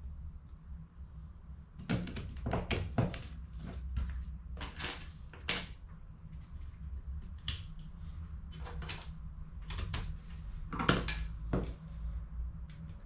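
Plastic HP CE285A laser toner cartridge parts being handled and fitted together: a string of irregular clicks and knocks over a steady low hum.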